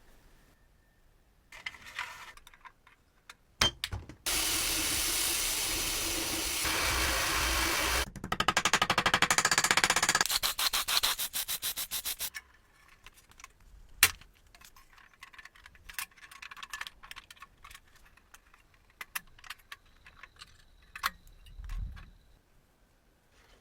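Metalwork restoration noises: about four seconds of steady abrasive noise, then a quick run of rapid rubbing or sanding strokes about five a second, followed by scattered light knocks and clicks of tools and parts being handled.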